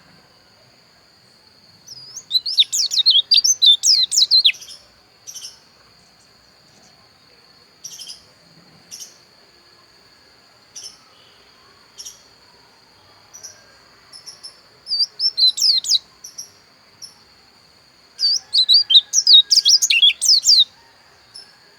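Pleci dakun white-eye singing: three bouts of rapid, twittering warble, about two to four seconds in, around fifteen seconds, and from about eighteen to twenty-one seconds, with single short chips between them. A steady high-pitched whine runs underneath.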